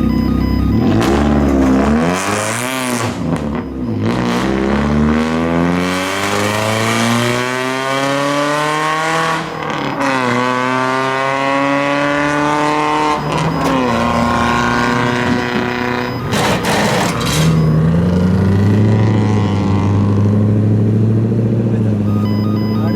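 Car engine revving hard through the gears as it pulls away: the exhaust pitch climbs and drops back twice, then settles into a steady lower drone near the end. Short rough bursts of noise come about two seconds in and again about sixteen seconds in.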